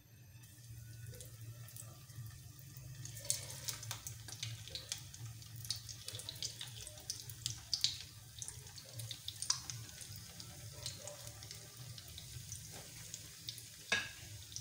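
Breadcrumbed chicken shami kababs shallow-frying in hot oil in a pan, sizzling with crackles and pops that pick up about three seconds in as more kababs are laid in. A low steady hum runs underneath.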